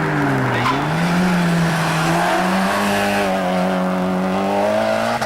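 Mazda MX-5 Cup race car's four-cylinder engine at racing revs. The revs dip briefly about half a second in, then pick up again and climb steadily, with a step up about two seconds in, over a hiss of tyre and road noise.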